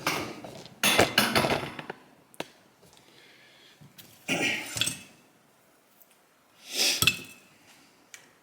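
Small metal carburetor parts and tools clinking and clattering on a workbench as they are handled, in four separate bursts.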